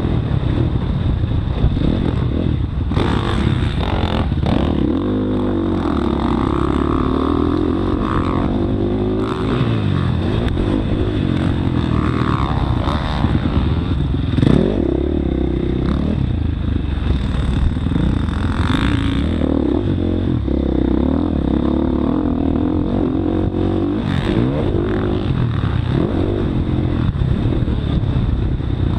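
Motocross bike engine revving up and down over and over as the throttle is worked, with a few sharp knocks and clatter in between.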